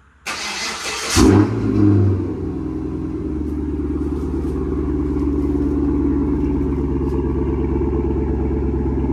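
Chevrolet Camaro cold start through its newly completed exhaust, pipes run from the X-pipe to the tips with the catalytic converters still in: the starter cranks for about a second, the engine catches and flares loudly twice, then settles into a steady fast-idle rumble. It is not too loud.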